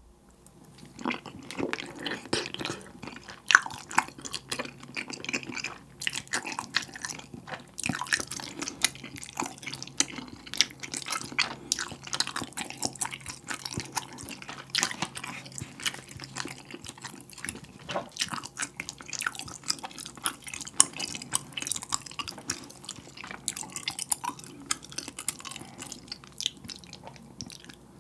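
Close-miked chewing of a mouthful of spicy tteokbokki, chewy rice cake in red sauce, with a dense run of wet mouth clicks and smacks.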